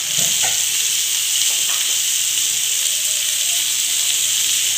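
Hot oil sizzling steadily in a kadai as shredded raw cabbage is tipped onto frying potatoes, with a few light taps in the first second or two.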